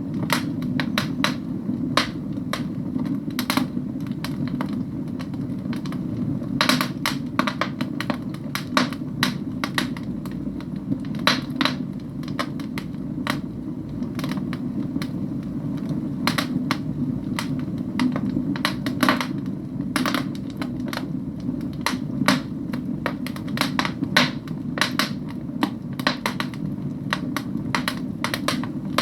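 Wood logs burning in a fireplace: irregular crackles and sharp pops over a steady low rush of the flames.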